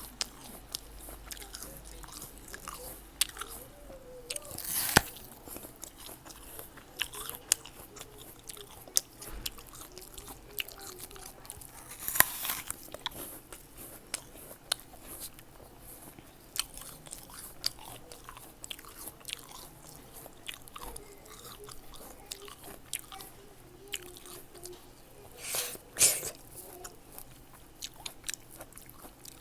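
Close-miked eating of fresh fruit: steady wet chewing with many small mouth clicks. Three louder crunching bites come about 5, 12 and 26 seconds in.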